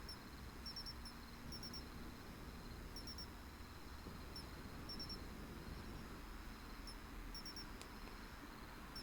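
Crickets chirping faintly in short groups of two or three high chirps, repeating every second or so, over a soft background hiss.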